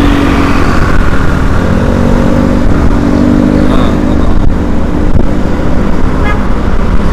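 Motor vehicle engine running steadily under heavy low road and wind rumble, with a steady engine hum that fades about three seconds in.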